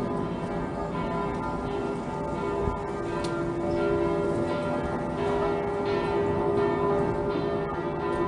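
Church bells ringing, several bells of different pitch sounding over one another and ringing on.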